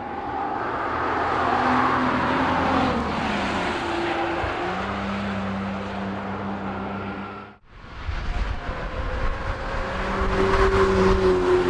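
Cadillac ATS-V prototype's twin-turbo V6 running hard as the car drives past, its note climbing and then holding steady. The sound cuts off abruptly about two thirds of the way through, then the engine comes back and grows louder as the car approaches again.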